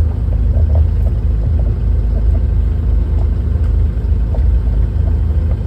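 Bobcat E35 mini excavator's diesel engine running steadily, a deep, even rumble.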